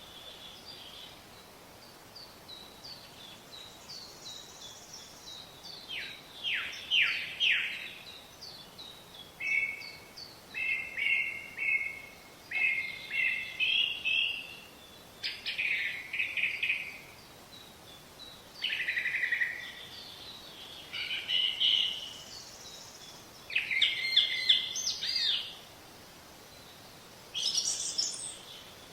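Songbirds singing and calling: a string of short, loud chirping phrases, some made of quick falling notes, over a faint steady hiss.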